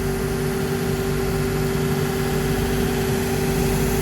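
Shoe-repair workshop machine running with a steady hum, two constant low tones over an even whirring noise.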